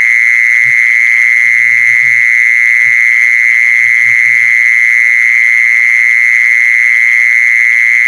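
Call sound played to lure the female kmol animal: a loud, unbroken high-pitched buzzing trill held at one pitch, with a few faint low murmurs beneath it.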